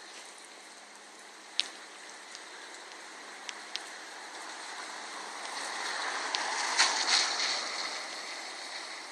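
Rainwater running along a street gutter with rain dripping, steady rushing water with a few sharp drip ticks. The rushing swells louder for a couple of seconds near the middle, then eases off.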